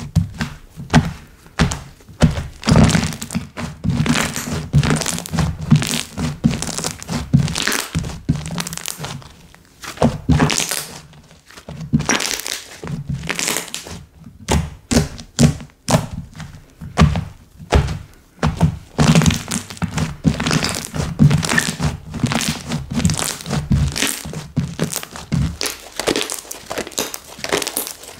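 Slime being squished and kneaded by hand: a dense, irregular run of sticky pops, clicks and crackles.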